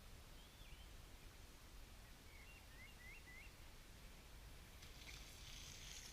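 Quiet outdoor ambience with a few faint bird chirps: a short one about half a second in and a quick run of three or four near the middle. A soft rustling hiss starts near the end.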